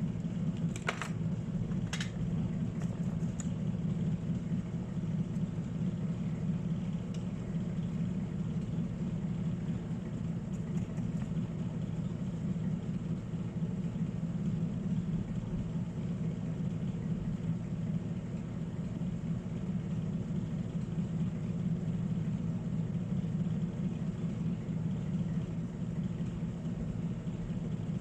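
A small motor or fan humming steadily at a low pitch, with two sharp clicks about one and two seconds in.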